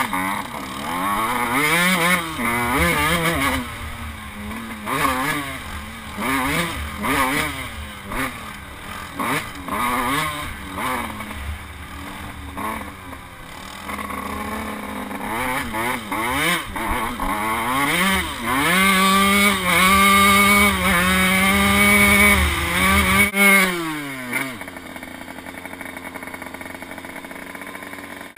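Dirt bike engine revving up and down repeatedly while riding, with pitch rising and falling through the throttle. It then holds high revs steadily for a few seconds before dropping off sharply near the end to a lower, steady idle.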